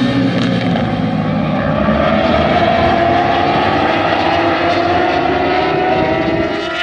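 Racing superbike engines at high revs, the engine note climbing slowly and steadily.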